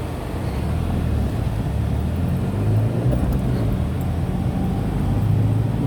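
Tata Nano's small two-cylinder engine and road noise heard from inside the cabin while driving, the engine hum growing a little louder in the first couple of seconds, then holding steady.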